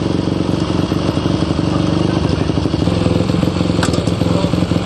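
Single-cylinder Supermono racing motorcycle engine running steadily with an even, rapid beat. It is being test-run to check that it still runs after being rebuilt from a heavy crash.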